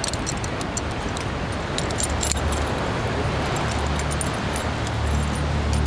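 Steady rushing roar of a large waterfall, with light metallic clinking in the first second and a low steady hum from about two seconds in.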